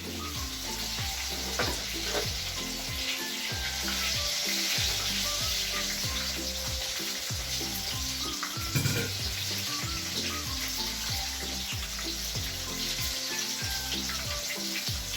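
Flour-coated chicken pieces deep-frying in hot oil: a steady sizzle with small pops.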